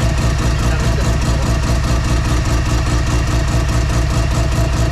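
Semi-peripheral-ported Mazda FD RX-7 twin-rotor rotary engine idling steadily with a lumpy, evenly pulsing "brappy" idle, on its first run after the build.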